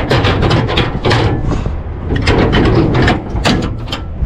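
Impact wrench hammering on truck wheel lug nuts, in two runs of rapid knocks with a short break in the middle, over a steady low hum.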